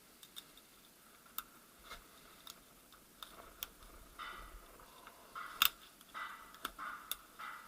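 Light clicks and short scrapes of steel gearbox parts being handled during a manual-gearbox teardown, coming more often in the second half, with one louder click a bit past halfway.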